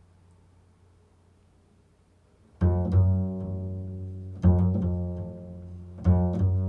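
Improvised music on a low-pitched plucked string instrument: after a quiet tail of an earlier note, notes are plucked about two and a half seconds in and twice more, each ringing out and fading.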